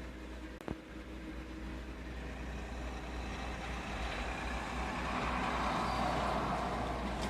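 Volkswagen Passat's 2.8-litre V6 idling steadily on a cold start. About a second in there is one sharp click, and over the last few seconds a rushing noise swells up and eases off.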